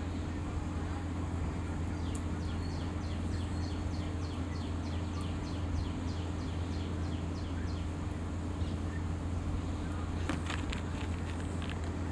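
A bird giving a rapid, even series of short high chirps, about four a second, for several seconds, over a steady low hum. A few sharp clicks follow near the end.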